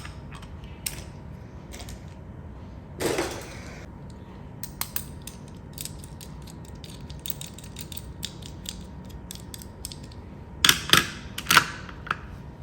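Irregular mechanical clicking and creaking, with a louder scrape about three seconds in and a few louder clatters near the end.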